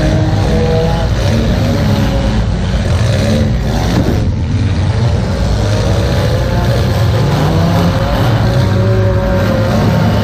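Demolition derby car's engine running loudly, heard from inside the stripped cabin, its pitch rising and falling as the throttle is worked, with a brief swell and dip about four seconds in.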